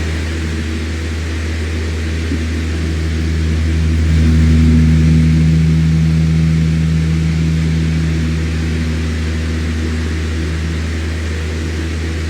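Electric fan running steadily: a low motor hum with a few steady tones over an even rush of air, swelling slightly in loudness around the middle.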